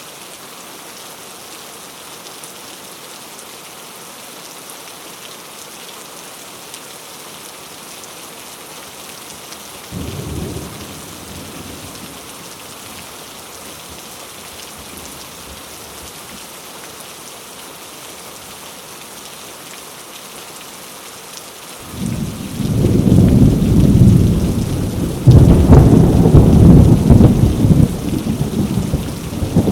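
Heavy rain falling on mango leaves, a steady hiss. A short low rumble comes about ten seconds in. Then, about two-thirds of the way through, a loud, deep rumble of thunder sets in and becomes the loudest sound.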